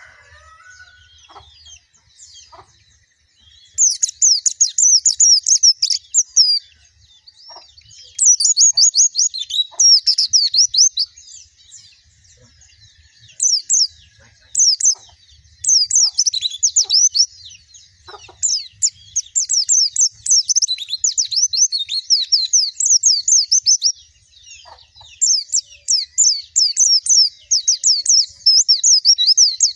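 White-eye (pleci) singing: rapid, high twittering phrases of quick sliding notes, each phrase lasting a second or a few seconds, with short pauses between them and near-continuous song in the second half.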